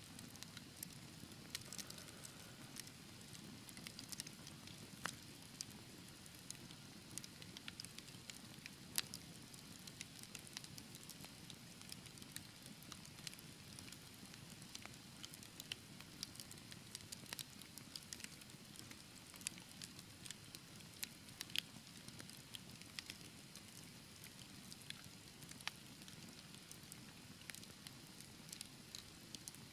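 Wood fire burning in a fireplace: a soft steady low rumble of flames with frequent sharp crackles and pops scattered irregularly throughout.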